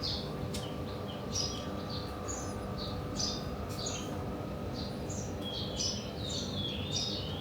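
Many small birds chirping and calling, short high notes one after another over a steady outdoor background noise.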